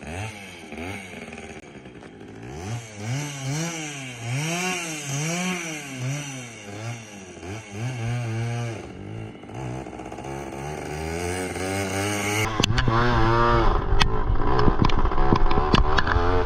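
Pit bike engine revving in repeated blips, its pitch rising and falling about once a second, then getting louder and revving higher near the end.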